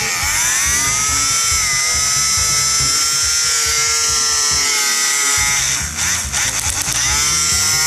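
Plarail toy train's small electric motor and gearbox running, a whine that rises as it spins up. About five and a half seconds in it cuts out with a few clicks, then spins up again.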